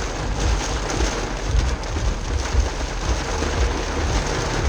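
Heavy rain, a steady dense hiss, with uneven low rumbling underneath.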